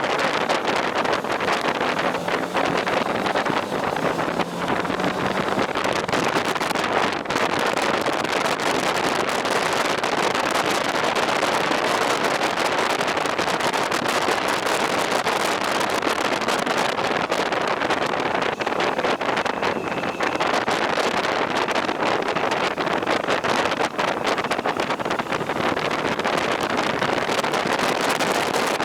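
Steady wind rush and road noise on the microphone of a moving motorcycle.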